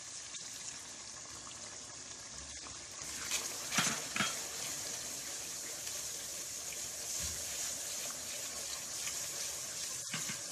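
Onions, tomatoes and masala sizzling in hot oil in an aluminium pot as a wooden spoon stirs them. The sizzle grows louder about three seconds in, with a few sharp knocks of the spoon against the pot.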